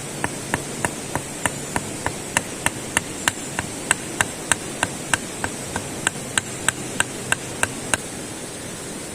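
Hammering: quick, even strikes about three a second that stop about eight seconds in, over a steady rushing noise.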